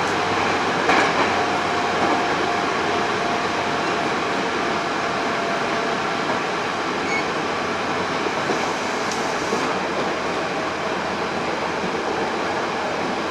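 Hankyu 8000 series electric train with Toshiba GTO-VVVF drive, running, heard from inside the passenger car: steady wheel and rail noise with a few light knocks. A faint steady whine fades out about six seconds in.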